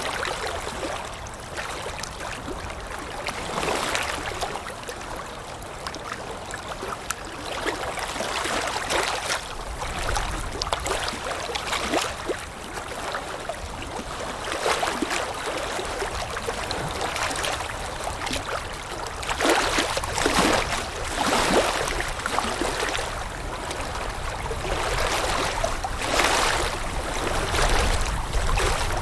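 Water lapping with wind: irregular splashing surges every few seconds over a steady wash, with a low wind rumble in places.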